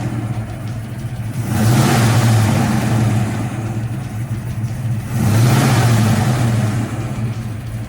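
Ford 302 HO V8 breathing through Hooker headers and Flowmaster mufflers, running and blipped twice, each rev lasting a second or two before settling back.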